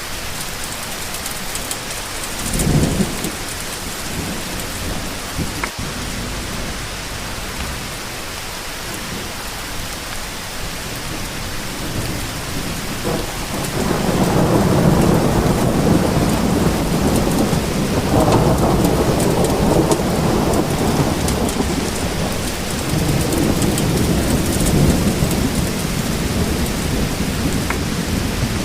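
Steady rain hissing, with thunder: a short low rumble about three seconds in, then from about halfway a long rolling peal that swells twice and slowly fades.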